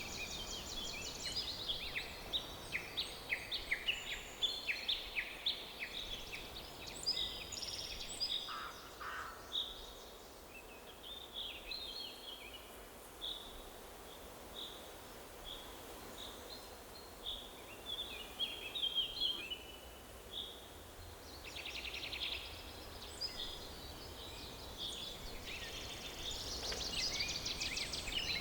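Several songbirds chirping and trilling over a faint steady forest background. The calls come thick near the start and again near the end, with a sparser stretch of short single chirps in the middle.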